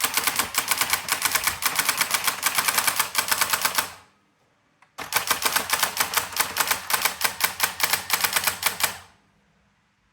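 Brother AX-425 electronic typewriter printing: two runs of rapid, evenly spaced key strikes, each about four seconds long, with a pause of about a second between them.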